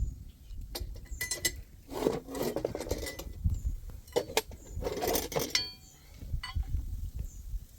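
Handling noises: scattered knocks and clinks, with two spells of scraping or rubbing about two and five seconds in, the second ending in a short metallic ring.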